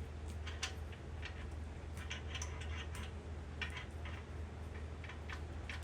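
Faint, irregular small metallic clicks and ticks from hand tools at work on a 383 engine block, while the main-cap bolt threads are being chased, over a steady low hum.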